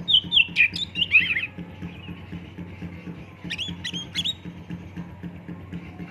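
Oriental magpie-robin (kacer) singing: two bursts of quick, sweeping whistled notes, the first at the start and the second about three and a half seconds in, over a faint low pulsing hum.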